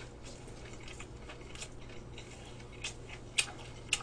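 Close-miked chewing of a mouthful of gimbap: scattered small crunches and wet mouth clicks, the sharpest near the end, over a steady low hum.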